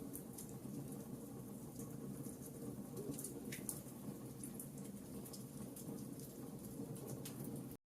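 Campfire burning, with small sharp crackles and pops of wood scattered irregularly over the steady low rumble of the flames. The sound cuts out for an instant near the end.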